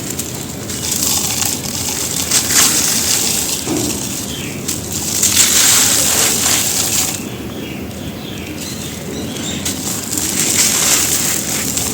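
Dry, gritty red dirt crumbling and crunching, with fine grit crackling as it breaks apart. The crunching swells in three waves and is loudest in the middle.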